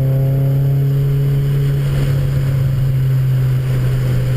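Car engine heard from inside the cabin, pulling with its pitch slowly rising, then the engine note drops away about two seconds in, leaving a steady low cabin drone and road noise as the car runs on the wet track.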